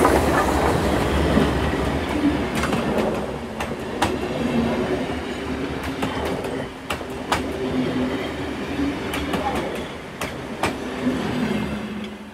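A train running on rails: a steady rumble with irregular sharp clicks of wheels over rail joints and wavering squeals. It dies away near the end.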